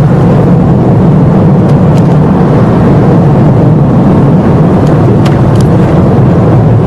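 Steady road and engine noise of a moving car heard from inside the cabin, a constant low drone with a few faint ticks.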